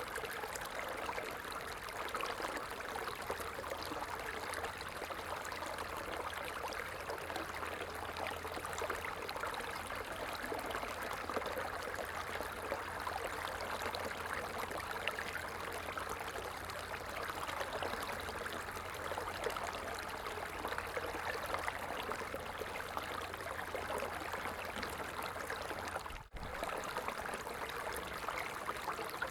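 A stream running steadily, an even rush of water with a split-second dropout near the end.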